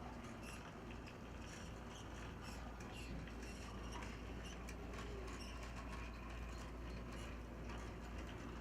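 HO-scale brass model of a Boston & Maine T1a 2-8-4 steam locomotive running on track: a faint, steady whir of its small motor and gearing with light, irregular clicking from the wheels and mechanism.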